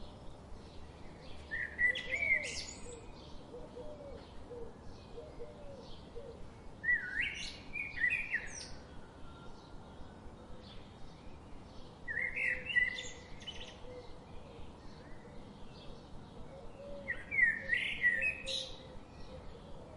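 A songbird repeating the same short, warbled song phrase four times, about every five seconds, over steady faint chirping from other birds in a forest.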